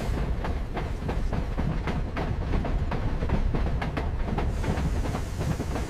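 Train running on rails: a steady low rumble with irregular clicking and rattling.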